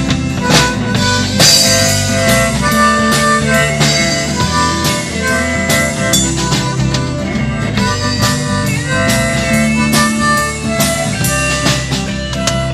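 Live band playing an instrumental break: drum kit and bass under a lead melody of held, sustained notes.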